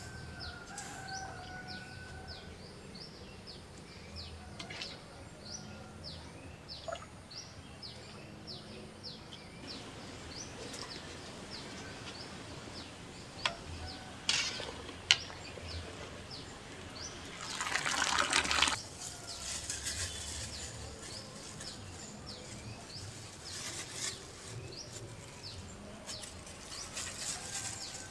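Small bird chirping over and over, short falling chirps about two a second, for the first third. Later come a few sharp knocks and a brief rush of noise that is the loudest moment.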